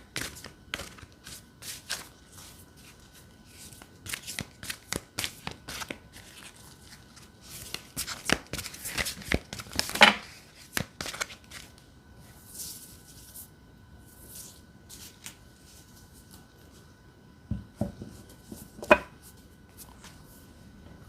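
A tarot deck being shuffled and handled: a quick run of card snaps and taps for about the first half, then slower, scattered taps and soft slides of cards.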